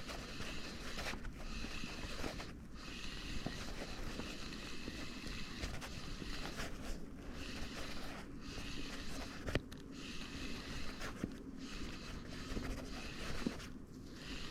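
Water washing against the hull of a sea kayak, a steady wash that dips briefly every second or two.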